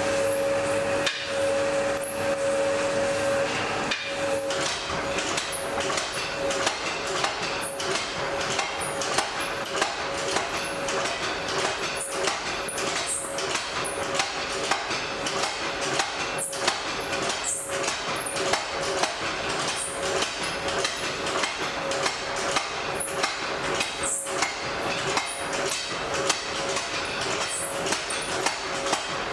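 Blacksmith's hammer striking on an anvil, a long run of irregular strikes, over a steady hum.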